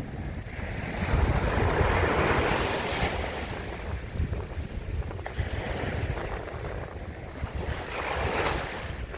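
Sea surf: waves washing in, swelling about a second in and again near the end, with wind buffeting the microphone in a steady low rumble.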